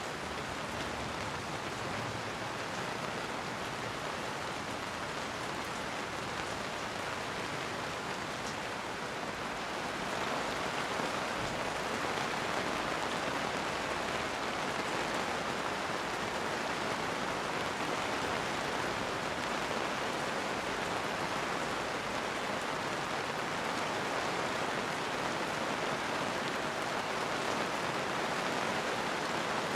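Steady rain falling, an even hiss with no thunder, growing slightly louder about ten seconds in.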